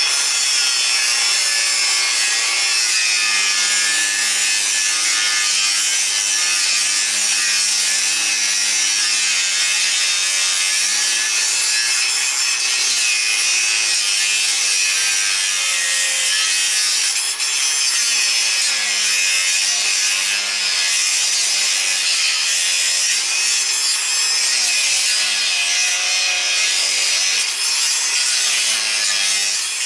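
Power tool, most likely an angle grinder, cutting the nubs off a steel fence post: a continuous, loud, hissing cut with the motor's pitch wavering a little under load.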